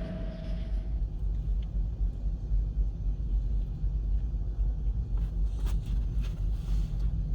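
Steady low rumble, with a few faint ticks.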